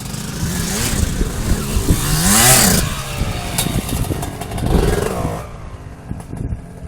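Dirt bike engine revving, its pitch rising and falling several times, loudest about two and a half seconds in, then dying down near the end.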